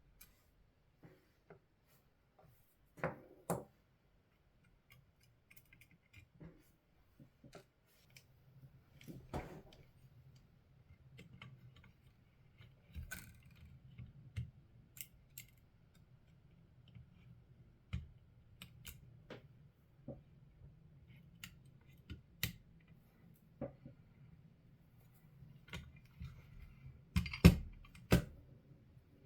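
Irregular small clicks, taps and scrapes of hand tools and small parts being handled while a Xiegu X6200 radio transceiver is disassembled, with a sharp pair of knocks near the end that is the loudest sound. A faint low hum sits underneath from about a third of the way in.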